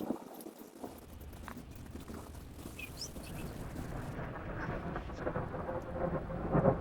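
Thunder rumbling, a low roll that sets in about a second in and swells steadily louder.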